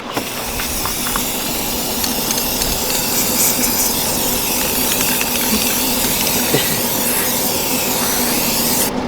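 Steady spraying hiss with a faint low hum under it, cutting off sharply near the end.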